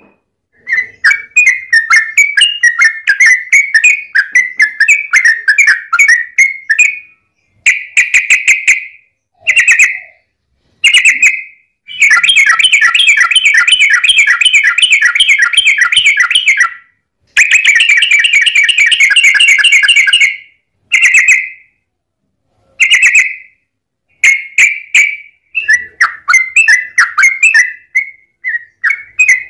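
Trucukan (yellow-vented bulbul) song: rapid, bubbly chattering phrases around 2 kHz, run together into long continuous bursts of a few seconds each (the 'ropel panjang'). The bursts are broken by short, abrupt silences.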